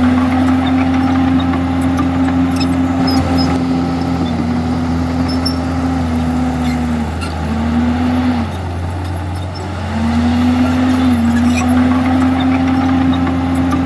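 Komatsu D51EX crawler bulldozer's diesel engine running under load, a steady engine note that drops away twice in the middle and comes back up.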